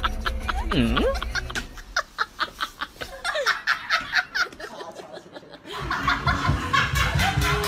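Snickering laughter, a quick run of short repeated laughs, over background music. About a second in there is a short sound that swoops down in pitch and back up.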